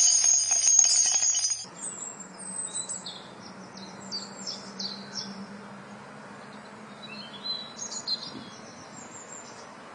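Songbirds chirping outdoors: short high calls come in two spells, over a faint steady low hum. For the first second and a half a louder, denser high chirping with clicks runs, then cuts off suddenly.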